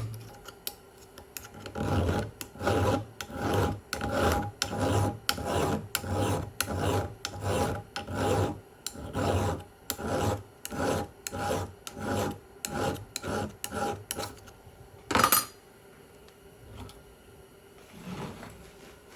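A file being drawn across a chainsaw chain's cutters in a sharpening jig, in steady rasping strokes about two a second, which stop after some twelve seconds. A single sharp click follows shortly after.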